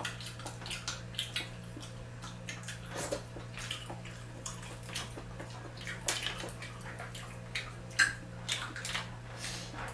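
Close-up wet eating sounds of seafood being eaten: irregular lip smacks, chewing and sucking clicks, over a steady low hum.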